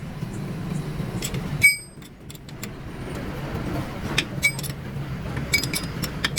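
Sharp metallic clinks and taps with a brief ring, steel gearbox parts knocking together as a tractor gear assembly is worked loose, over a steady low hum. The loudest clink comes a little under two seconds in, and several more follow in the second half.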